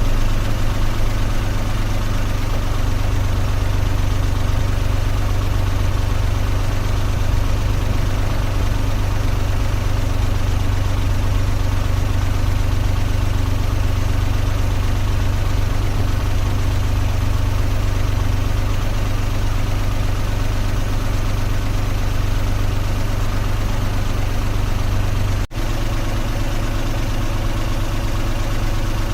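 Car engine idling steadily, a low even hum. Near the end the sound drops out for an instant, then carries on unchanged.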